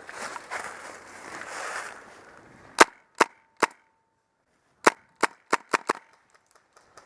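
Footsteps moving through brush, then an airsoft gun firing sharp snapping shots: three single shots, a short pause, then five more in quicker succession.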